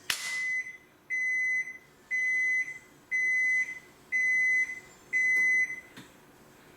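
Washing machine's electronic beeper sounding six steady, high beeps, about one a second, after a sharp click at the start.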